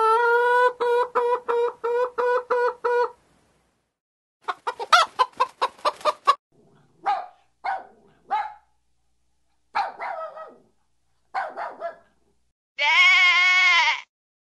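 Chicken clucking in several separate bursts: first a steady run of evenly pulsed clucks, then a fast cackle, then short single clucks. Near the end comes one long bleating call, about a second long, with an arching pitch.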